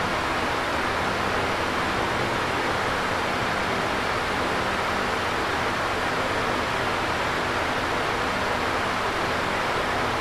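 Electric fan running steadily: an even rush of moving air with a faint low hum from the motor underneath.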